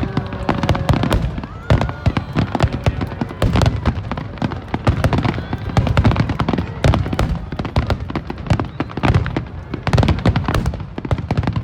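Aerial fireworks display in a rapid barrage: dense, overlapping shell bursts with deep booms and sharp crackles, many a second.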